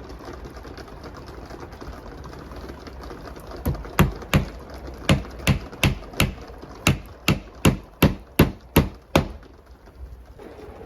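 A run of about fifteen sharp knocks, two or three a second, starting a few seconds in and stopping about two seconds before the end, over a steady low background noise.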